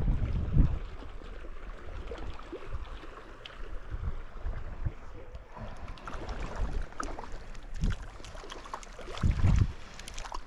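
Wind buffeting the microphone in gusts, strongest at the start and again near the end, over the steady rush of a flowing river.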